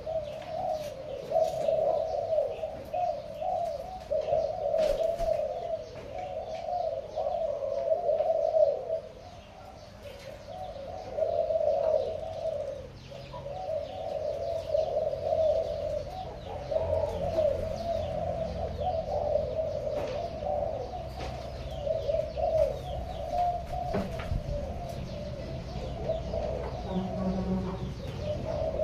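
Pigeons cooing almost without a break, several voices overlapping, with a short lull about nine seconds in. Faint high chirps run alongside.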